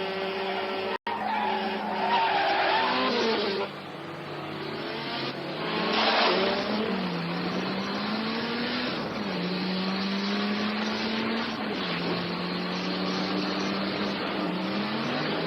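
Car engines revving hard at speed, their pitch climbing and then dropping with each gear change, with tyre noise and a loud burst of noise about six seconds in. Sound is cut off for an instant about a second in.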